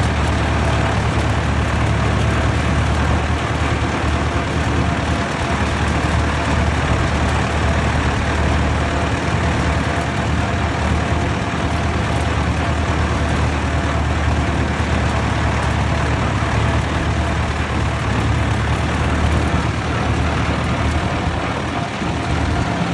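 Vintage tractor engine running at a steady speed on the road, a constant low hum under an even hiss.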